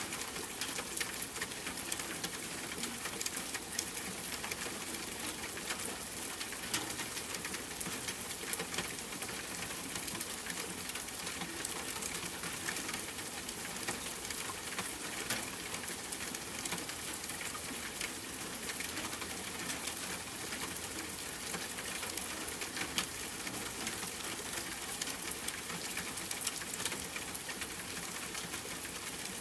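Steady rain, with a dense patter of drops ticking on a hard surface.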